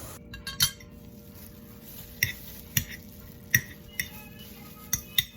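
Metal fork clinking and scraping against a dish while pulling boiled chicken breast apart: about seven sharp clinks spread through, over a faint steady hum.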